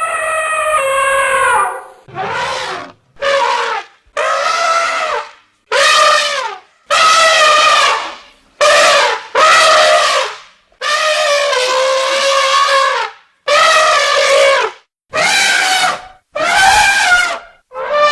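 An animal calling over and over: about a dozen loud, brassy calls, each lasting up to a couple of seconds, with a wavering pitch and short pauses between them.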